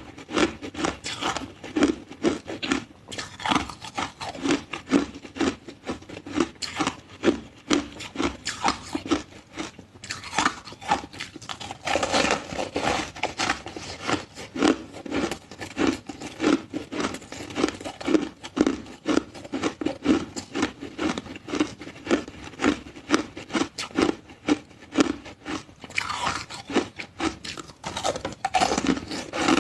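Ice being chewed close to the microphone: a continuous run of sharp, rapid crunches as the cubes break between the teeth.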